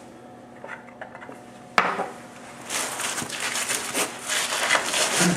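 Metal tool clinks and a sharp knock, then from about halfway in a hand ratchet clicking rapidly as it runs a nut down a rusty, oiled subframe bolt.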